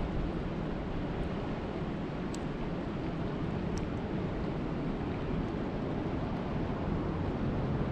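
Steady rushing noise of water at a lake, heaviest in the low end, with a few faint sharp ticks, one about two seconds in and one about four seconds in.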